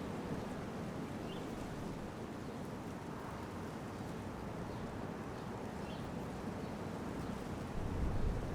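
Steady low rumble of wind on the microphone, swelling in a gust near the end, with a few faint, short bird chirps over it.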